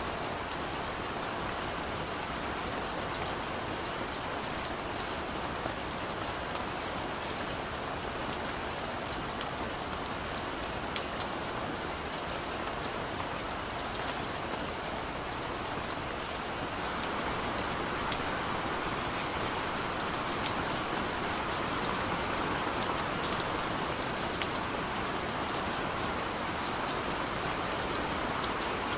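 Steady rain falling, with scattered sharp drop ticks over a continuous hiss; it grows slightly heavier a little past halfway.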